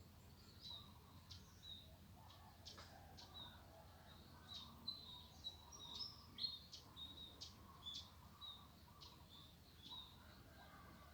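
Faint chirping of small birds: many short, high calls scattered throughout.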